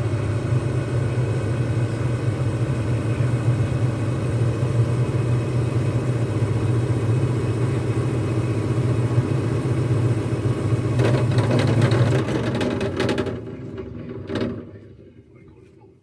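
Lennox furnace's draft inducer fan motor running with a loud, steady drone, the sign of its bearings going out. The noise fades away in the last few seconds.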